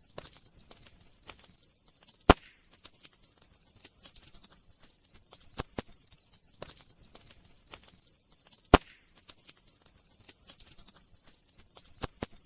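Campfire crackling: irregular sharp snaps of burning wood over a faint hiss, with two loud pops, one about two seconds in and one near the nine-second mark.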